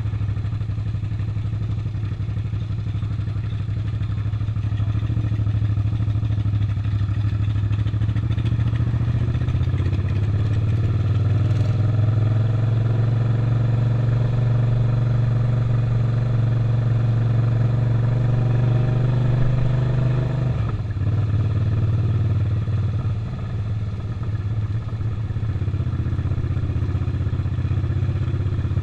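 Suzuki SV650's 90-degree V-twin engine running under way. Its note climbs slowly, drops suddenly about two-thirds of the way in, then settles into a steady run again.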